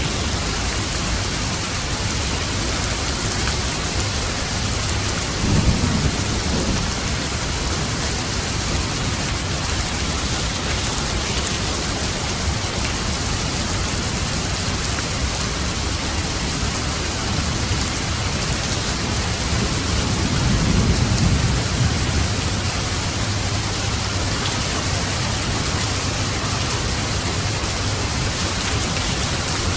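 Steady rain falling, with two low rumbles of thunder: a short one about six seconds in and a longer one around twenty seconds.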